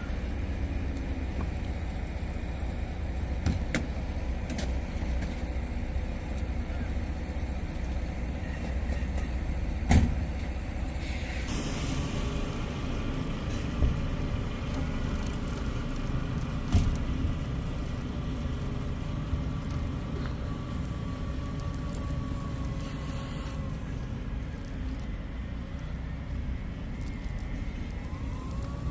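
A heavy truck's engine running steadily with a low rumble. A few sharp knocks come through, the loudest about a third of the way in, and a short burst of hiss follows soon after.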